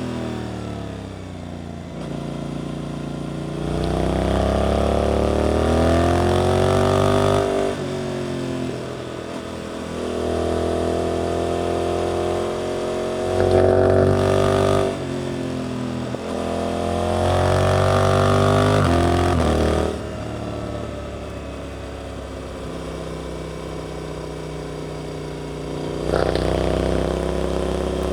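Suzuki GSX-8S parallel-twin engine through an Arrows aftermarket exhaust, pulling hard several times with the revs rising and then dropping away as the throttle is closed between corners. There is a short sharp blip about halfway through.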